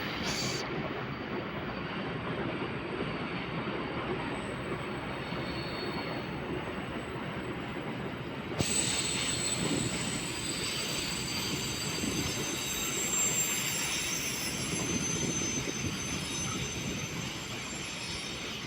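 Freight train rolling through the station with a steady rumble of wagons on the rails. About eight seconds in, high-pitched wheel squeal sets in and carries on.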